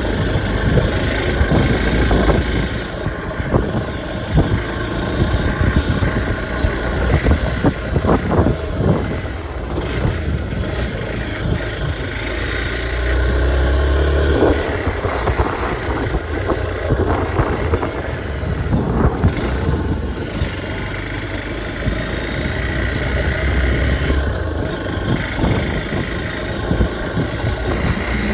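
Hero XPulse 200 4V's single-cylinder engine running as the motorcycle is ridden.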